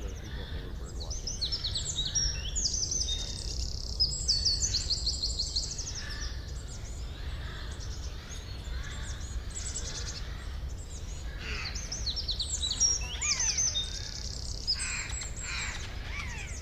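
Several songbirds singing in a forest: clusters of rapid, high chirps and trills, busiest in the first few seconds and again in the second half, over a steady low rumble.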